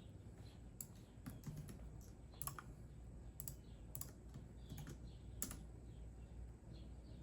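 Computer keyboard typed on slowly, a scattering of separate key clicks at uneven intervals, with faint bird chirps in the background.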